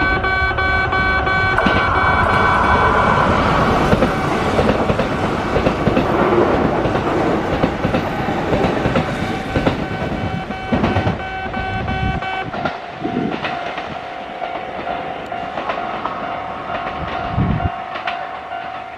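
Kintetsu electric train running past, wheels clattering over rail joints with steady whining tones, the sound fading over the last few seconds as it moves away.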